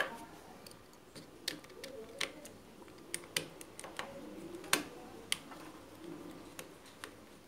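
Irregular light clicks and taps of small parts being handled at the sewing machine's light switch and wiring, a dozen or so scattered through.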